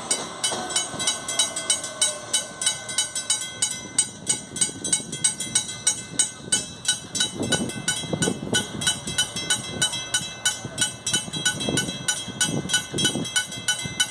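Electric commuter train at a station platform, with a steady fast ringing pulse of about five beats a second and a few low wheel thumps over rail joints around the middle and near the end.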